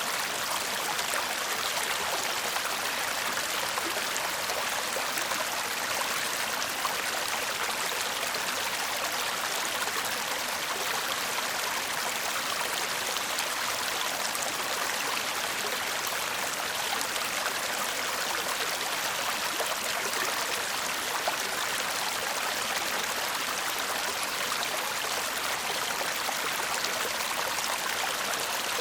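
Shallow stream babbling steadily, water rushing and trickling over stones with an even, unbroken hiss.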